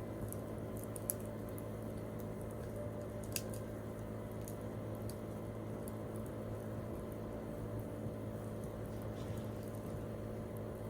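Wood campfire crackling, with scattered sharp pops and snaps over a steady low hiss of burning; the two loudest pops come about a second in and a little after three seconds.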